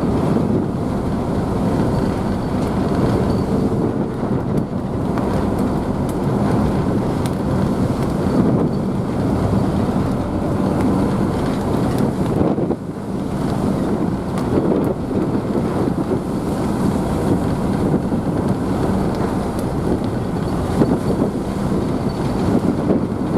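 Ise Bay Ferry's engines droning steadily under the rush and splash of the churned wake, heard from the stern deck, with wind on the microphone.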